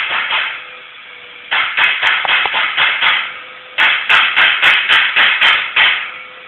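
A lovebird calling: shrill chirps repeated about four to five times a second, in three bouts with short pauses between them.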